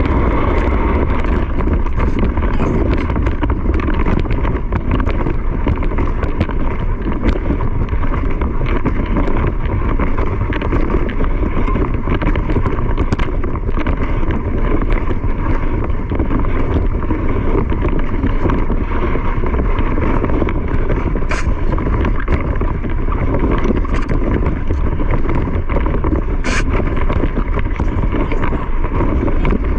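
A vehicle running steadily at speed, with wind buffeting the microphone; a couple of brief sharp clicks come near the end.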